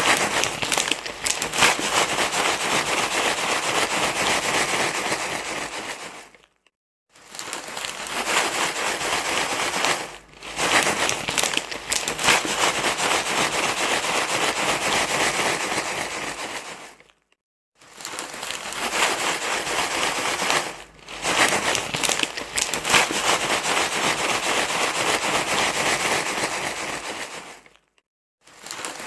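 Continuous loud crinkling and rustling, a repeated recording broken by short silences about every ten seconds, played to calm a crying baby.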